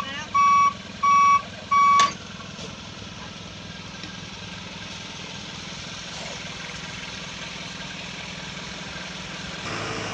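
Dump truck's reversing alarm beeping three times in a steady pulse, then stopping about two seconds in. The truck's diesel engine keeps running steadily underneath.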